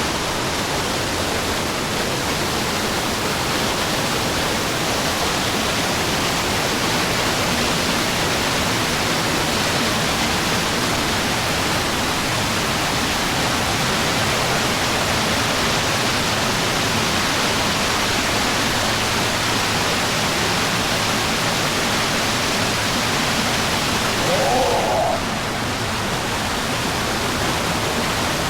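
Rainforest waterfall: a steady, loud rush of falling water. A short pitched sound comes about 25 seconds in.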